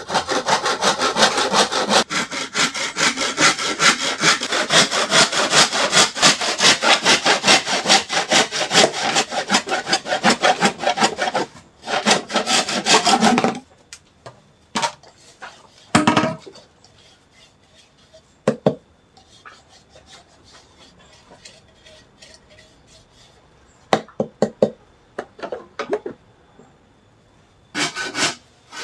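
Saw cutting through a bamboo tube with a long run of quick strokes. It stops about halfway through, with scattered knocks and clicks while the bamboo is handled, and the sawing starts again near the end.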